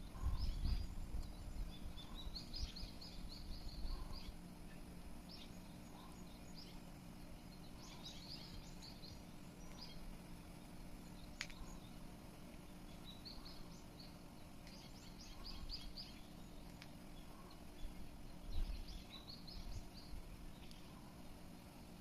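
A bird singing short phrases of quick, high chirping notes, repeated every few seconds, over a low rumbling background noise.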